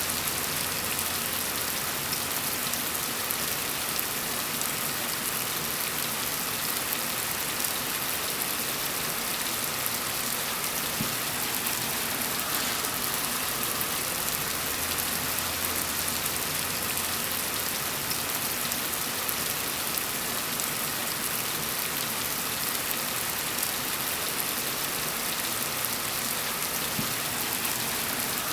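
Steady gentle rain falling on a surface, an even hiss dotted with fine drop patter, with a faint low hum underneath that comes and goes.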